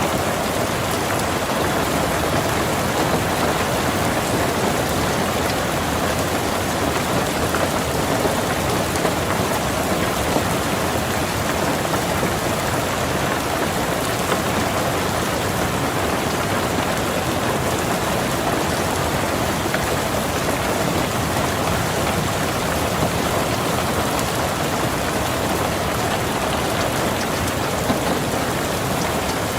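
Steady, even rain falling on a car's roof and windows, heard from inside the car.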